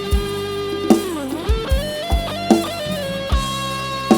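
Instrumental band music: an electric guitar plays a bending lead line over bass, with kick-drum hits every second or so.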